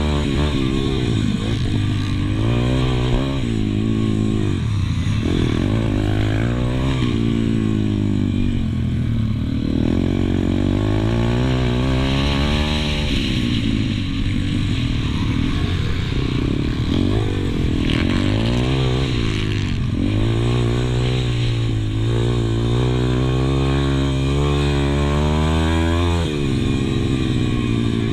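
Pit bike engine heard from on board, revving up and falling off again and again as the bike is ridden hard around the track. Near the end the revs hold steady for several seconds, then drop sharply.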